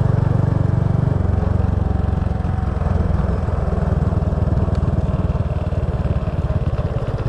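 Small motorbike's engine running, heard close up; about a second in its note drops to a slower, evenly pulsing beat as it eases off.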